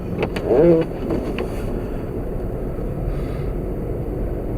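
Windshield wipers squealing once across the glass, a short annoying squeak about half a second in. After that, the steady rumble of road and wind noise inside the car's cabin.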